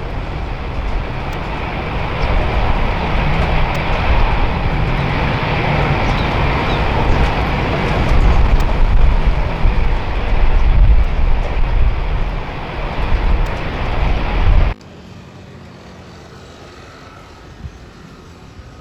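Jet airliner passing close, a loud steady roar with deep rumble and hiss from its engines. The sound cuts off abruptly about 15 seconds in, leaving quiet background ambience.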